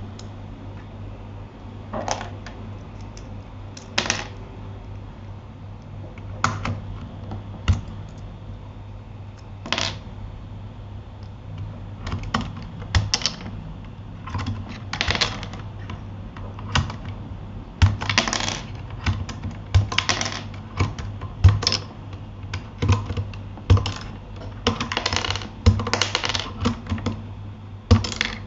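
Keys being typed on a Keychron K8 mechanical keyboard: irregular clicks and clacks, a few isolated presses at first, then quicker runs of keystrokes in the second half.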